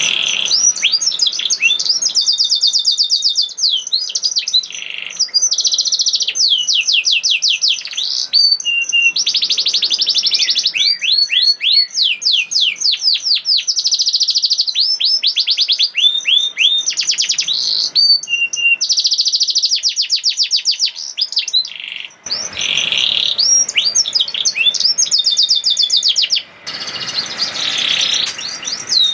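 Canary singing continuously in long, fast trills of rapidly repeated, downward-sweeping high notes (the rolling 'nembak' song), broken by a few short pauses.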